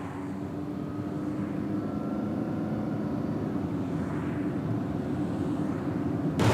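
Vehicle engine running steadily, a low drone that slowly grows louder, ending in a sudden loud hit.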